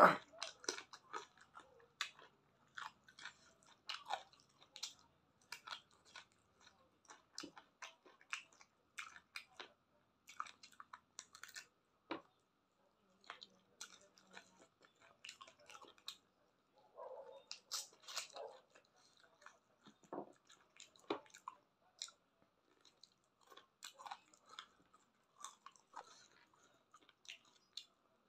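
Close-miked mouth sounds of a person eating chicken feet: wet chewing, biting and small crunches as irregular clicks, several a second.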